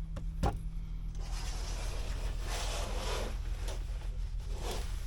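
Steady low machine hum, with two sharp clicks near the start, then repeated rustling and shuffling as something is handled.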